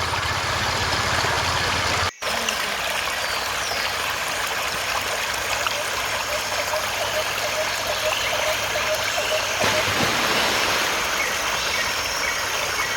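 Mountain waterfall rushing steadily: a dense, even hiss of falling water, cut by a brief gap about two seconds in. Faint short repeated notes sound over it near the end.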